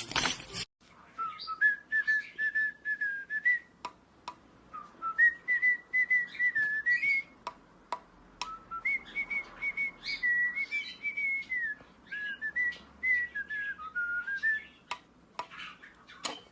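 Parrot whistling a tune in four clear phrases, the notes sliding up and down, with scattered sharp clicks between them.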